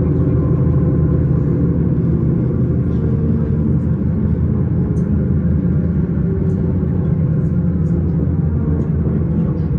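S-Bahn train running, with a steady heavy rumble and the hum of its electric motors.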